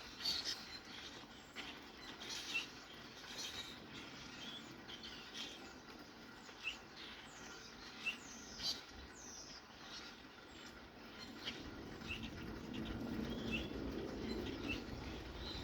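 Several birds chirping: short, scattered chirps and a few quick falling calls over a steady hiss of light rain. A low rumble grows louder near the end.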